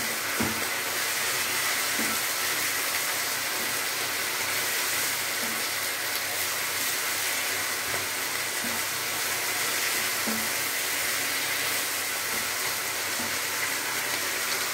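Lamb and vegetable stir fry sizzling steadily in a frying pan over a gas flame, with a few soft knocks and scrapes from a wooden spatula as it is turned.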